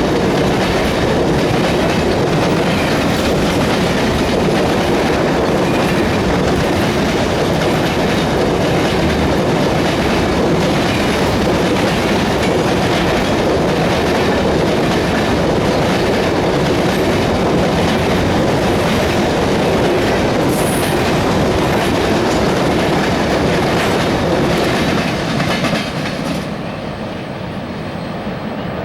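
Freight train of loaded grain cars rolling past, a steady rumble with the clickety-clack of wheels over rail joints; the noise drops off near the end as the cars pass by.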